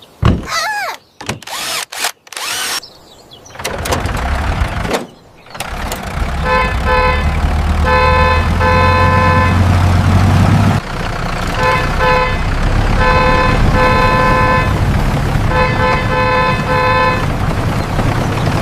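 Cartoon vehicle sound effects. A few short squeaky noises are followed by a motor running with a steady low rumble. From about six seconds in, a horn honks over and over in short groups of toots.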